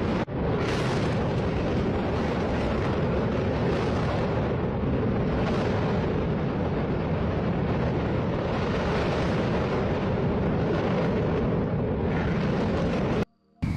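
Loud, steady rumbling noise with no distinct knocks or voices, which cuts off abruptly near the end.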